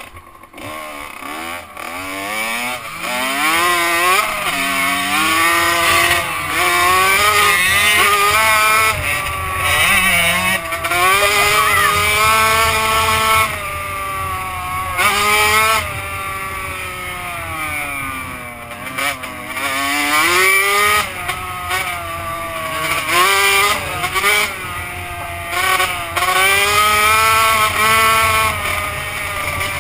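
Two-stroke motocross bike engine revving hard, its pitch climbing and dropping again and again as the bike is ridden under load.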